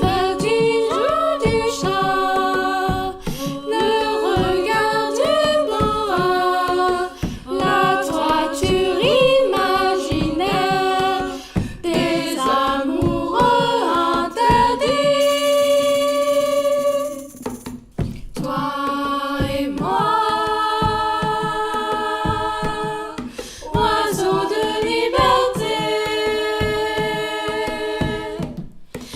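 A small group of teenage voices singing a cappella in several-part harmony, with a long held chord about halfway through.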